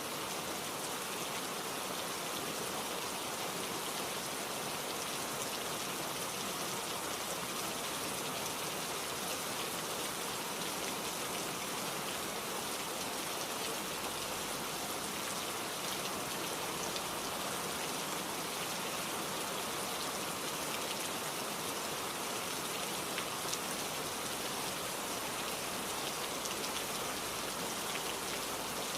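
Steady rain falling on a surface, an even hiss with scattered drop ticks and no change in level.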